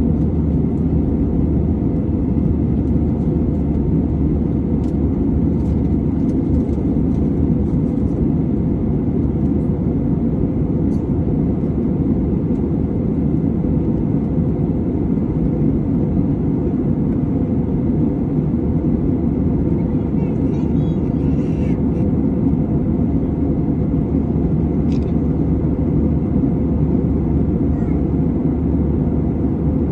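Aircraft cabin noise: a steady, deep drone of engines and airflow heard from inside the passenger cabin, with a few faint clicks.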